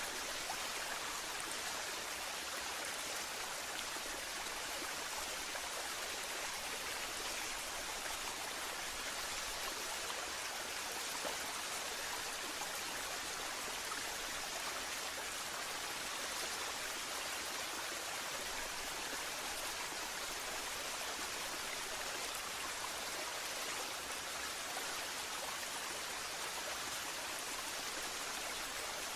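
Waterfall: water falling and splashing with a steady, even rush, mostly a bright hiss with little low rumble.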